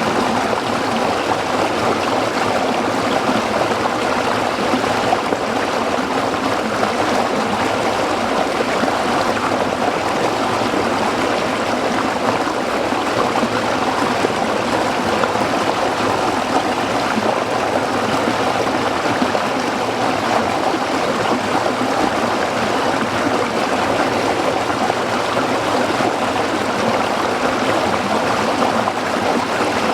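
A small stream running over rocks, a steady, even rush of flowing water.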